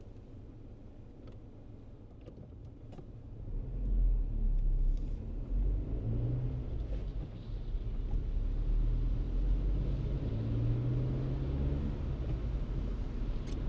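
Low car rumble of engine and tyres that swells about three and a half seconds in and then holds steady, as the car gets moving.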